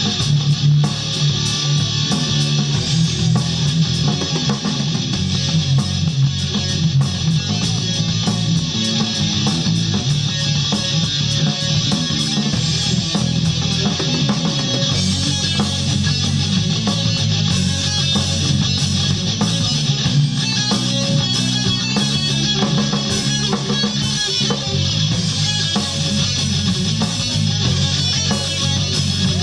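A rock band playing live, loud and steady, with electric guitar to the fore.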